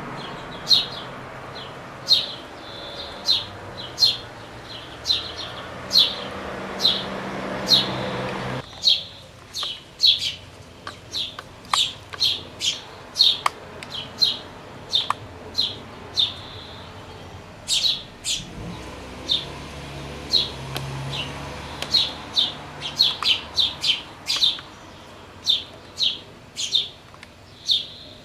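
Hungry bird chicks begging for food: a long run of short, high chirps, about two a second.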